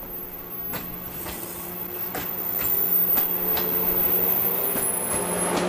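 JR West 115 series electric train running past, its wheels clacking over rail joints in irregular knocks over a steady hum, growing louder as the cars go by.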